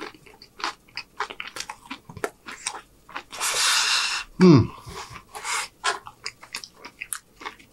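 Close-up chewing of a mouthful of crunchy food, with many small clicking crunches. About three seconds in comes a breath of about a second blown out through the mouth because the bite is too hot, followed at once by a short vocal sound falling in pitch.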